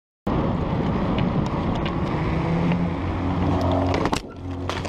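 Moving car's engine and road noise, steady and loud, starting abruptly, with scattered sharp clicks and a sharp knock about four seconds in, after which it briefly drops quieter.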